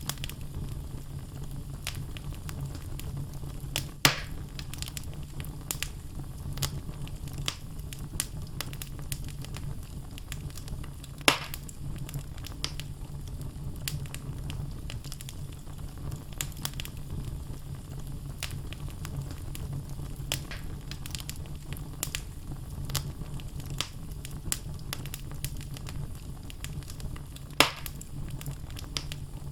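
Wood fire in a fireplace burning, with a steady low rumble and frequent small crackles from the burning logs. Three louder, sharper pops stand out: about four seconds in, about eleven seconds in, and near the end.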